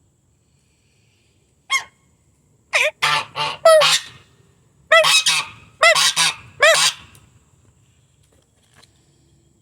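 Domestic gander honking: one short honk, then two quick runs of loud, repeated honks.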